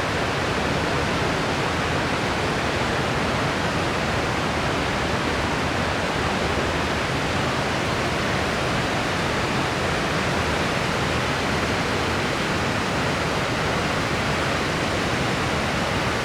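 Steady white noise: an even, unchanging hiss, fuller in the lows, that does not rise or fall.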